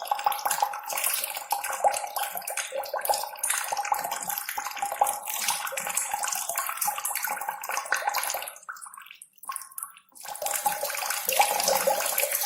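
Splashing, running water with a busy, crackling texture, dropping out briefly about nine seconds in and then resuming before cutting off suddenly.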